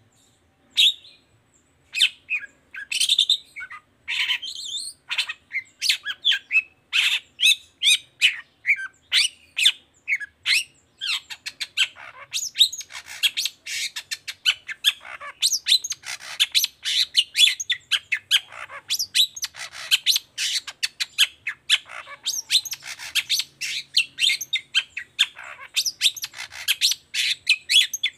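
Long-tailed shrike (cendet) singing loud, sharp, chattering notes. They come in spaced-out phrases at first, then run together into a dense, rapid chatter from about ten seconds in.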